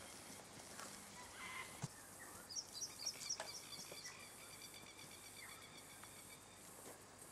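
Faint bush ambience with a bird calling: a quick run of high chirps about two and a half seconds in, then a thin, steady high note held for several seconds.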